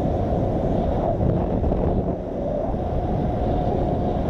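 Wind rushing over the microphone of a moving motorcycle, with the bike's engine running underneath as a steady drone.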